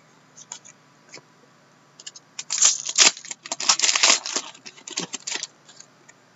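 Trading cards being handled and slid against one another. A few light clicks are followed by a dense stretch of rustling and scraping from about two and a half to five and a half seconds in.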